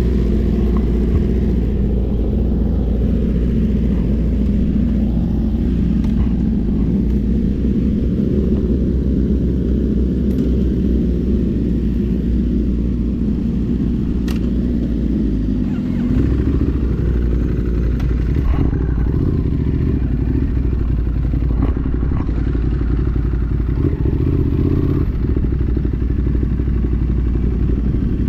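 Motorcycle riding at speed: heavy wind rumble on the microphone over the engine, with a brief dip about sixteen seconds in.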